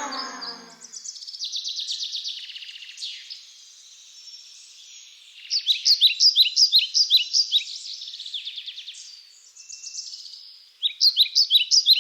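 Small birds chirping and twittering in high, thin notes. Two runs of quick, sharp, repeated chirps stand out, one about halfway through and one near the end.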